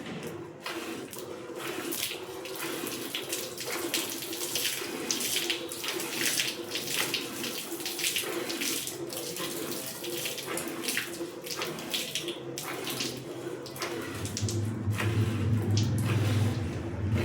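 Jets of milk squirting into a bucket as a Murrah buffalo is milked by hand: a hissing splash about twice a second, in a steady rhythm. A low, steady engine-like hum comes in about 14 seconds in.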